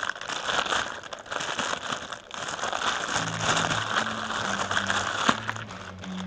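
Dense crackling, rustling noise with many small clicks. Background music's bass notes come in about three seconds in.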